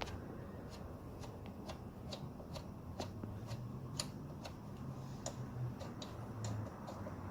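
Socket ratchet clicking slowly and irregularly, about two sharp clicks a second, over a low steady hum.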